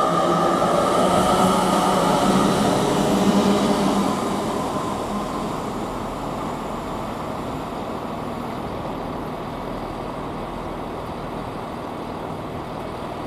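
A train running past on the line, its steady rumble and motor tone loud at first, then fading away after about four seconds into a lower, steady noise.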